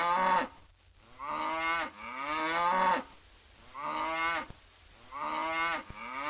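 Cow mooing repeatedly: about six short moos in a row.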